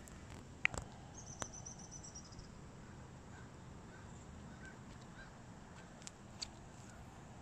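A small bird's short high trill of about a dozen quick notes, falling slightly, about a second in, over a quiet low hum. A few sharp clicks, the loudest just before the trill, and some faint soft chirps in the middle.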